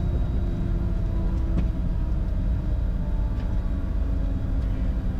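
Bombardier Challenger 605 on its landing rollout, heard in the cockpit: a heavy, steady low rumble from the wheels on the runway mixed with the whine of its two CF34 turbofans in reverse thrust.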